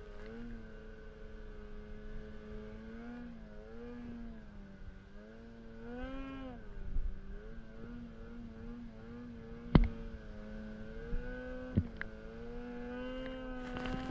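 Snowmobile engine under way, its note rising and falling as the throttle is worked. There is a sharp knock about ten seconds in and another near twelve seconds.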